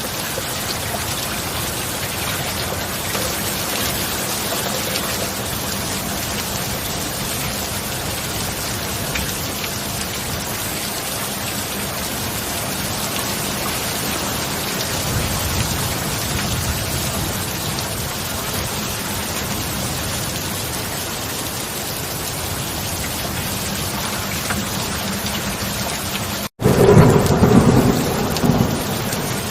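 Steady heavy rain falling. Near the end the sound cuts out for an instant, then a loud thunderclap crashes in and rumbles down.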